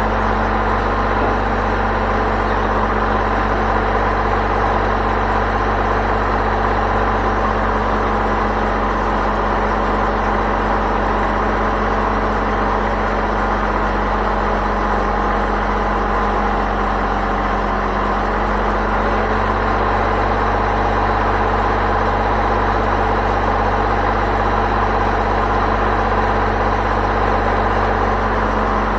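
Engine running steadily at a constant speed, an even hum with no revving or changes.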